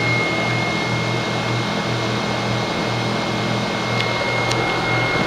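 2007 American Standard heat pump outdoor unit running steadily: compressor hum that pulses about twice a second under the rushing of the condenser fan, with a thin steady high tone above.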